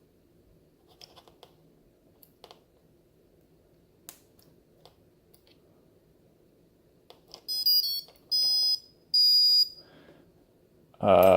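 Antweight combat robot's electronics sounding a series of electronic beeps about seven seconds in: a few short beeps, then two longer tones. The beeps signal that the robot has armed, though it was not armed by hand.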